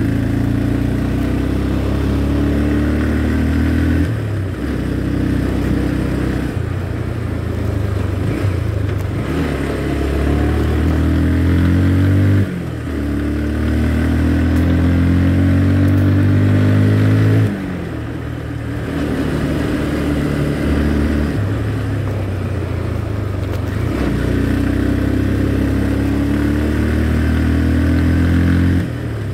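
Motorcycle engine under way, pulling steadily with several gear changes, where its pitch and loudness drop briefly and then pick up again.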